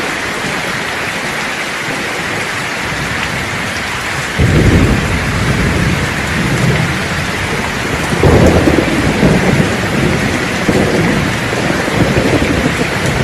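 Steady heavy rain hissing, with thunder breaking in suddenly about four seconds in and a second, louder peal about eight seconds in, rumbling on to the end.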